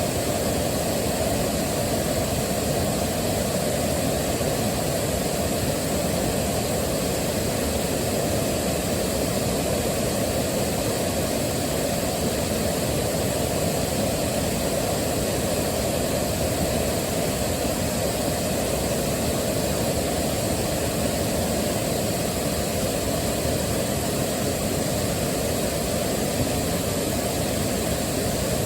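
Waterfall: a steady rush of falling water, heaviest in the low and middle range, unchanging throughout.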